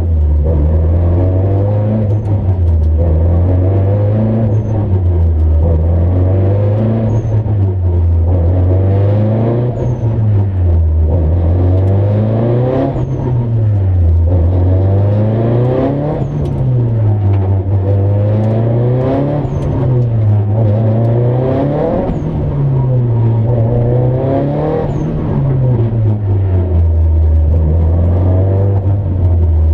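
Nissan Silvia's engine heard from inside the cabin while it is driven hard: the revs climb and drop again and again as it accelerates through the gears, over a steady hiss of road and tyre noise.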